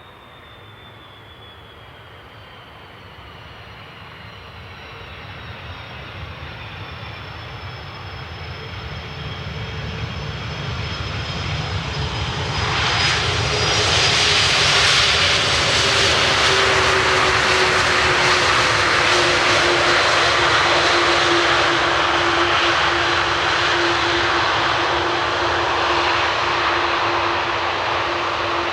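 Jet airliner's engines passing close by: the roar grows louder for about twelve seconds, then stays loud, with thin engine whines slowly falling in pitch.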